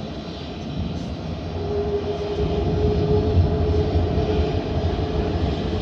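Boeing 737-500's CFM56-3 jet engines running: a steady low rumble, with a steady hum joining in about two seconds in.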